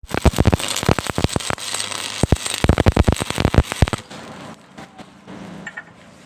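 Electric arc welding crackling and popping irregularly, stopping abruptly about four seconds in, after which only faint background sounds remain.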